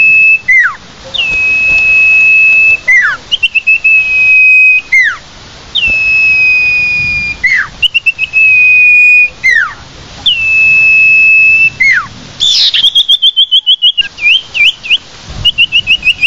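Common iora (sirtu/cipoh) lure call: long, level, high whistles of about a second and a half, each with a short upslurred start and a quick down-slurred note at the end, repeated about every two seconds. About twelve seconds in it changes to a fast run of short repeated chipping notes.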